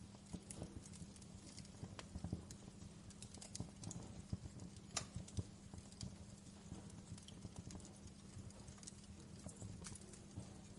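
Wood fire in a fireplace crackling, with small irregular pops and snaps throughout and a few sharper ones, over a faint steady low rumble.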